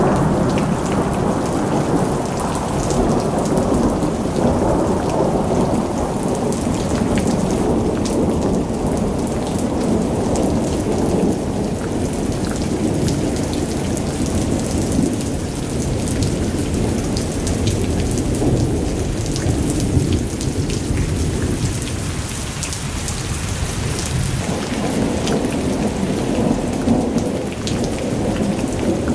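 Heavy rain pouring down steadily, a dense low rumble with scattered drop ticks over it.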